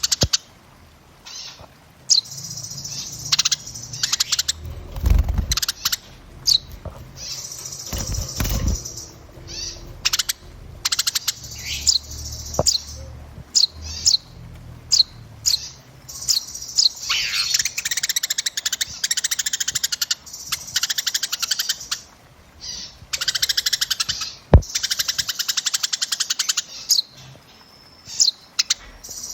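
Dense song of small songbirds: a rapid string of short high chirps and quick whistled notes, breaking into long stretches of fast trilling, with a few low thumps and a sharp click. It is a masteran recording of small-bird song, played for caged songbirds to learn.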